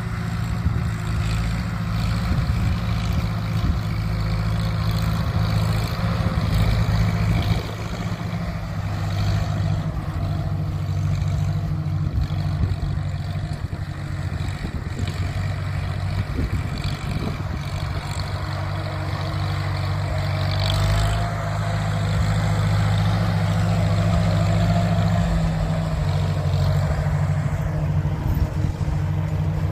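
1948 McCormick Farmall H tractor's four-cylinder gasoline engine running steadily, a little louder from about two-thirds of the way in.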